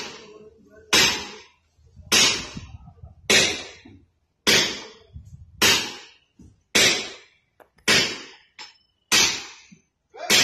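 Hammer blows on steel at rail track work, about nine strikes evenly spaced a little more than a second apart, each ringing briefly after the hit.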